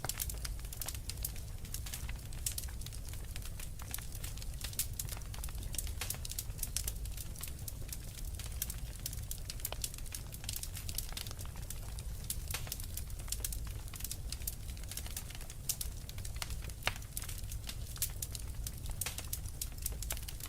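Wood fire crackling, with many sharp irregular pops and snaps over a low steady rumble of burning.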